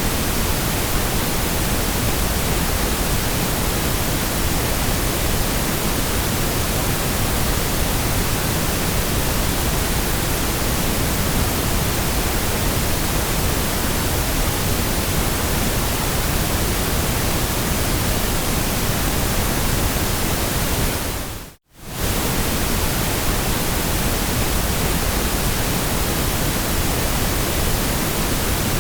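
Steady, even hiss of generated white noise. About 21 seconds in it dips briefly to silence and comes straight back, like a loop restarting.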